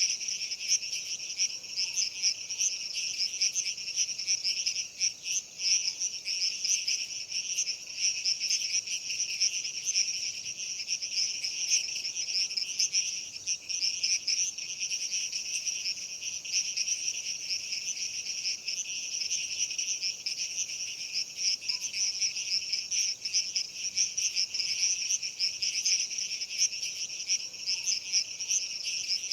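Dense chorus of night insects such as crickets, a continuous high-pitched chirring that holds steady and never pauses.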